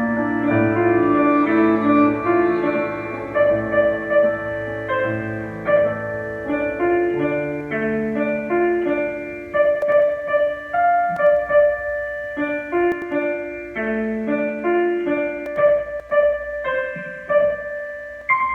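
Instrumental piano music: sustained chords under a slower melody line, with no voice.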